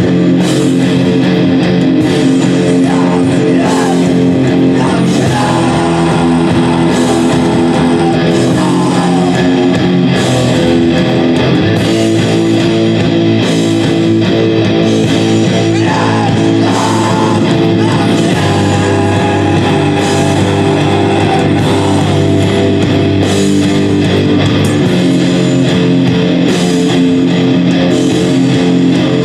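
Loud live rock music led by electric guitar, dense sustained chords changing every few seconds.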